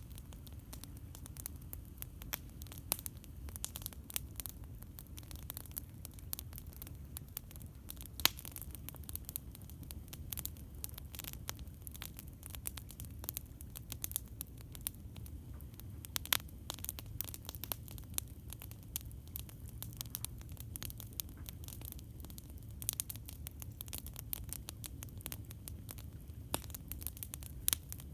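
Campfire crackling: many irregular sharp pops and snaps of burning wood over a low steady rumble.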